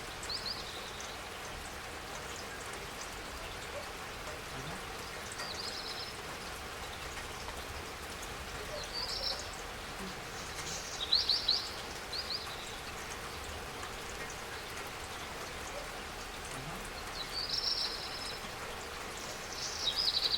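Steady spring rainfall, with a bird chirping briefly and high about seven times over it. The loudest is a quick run of chirps about halfway through.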